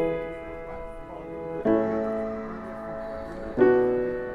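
Background music: piano chords struck about every two seconds, each ringing out and slowly fading.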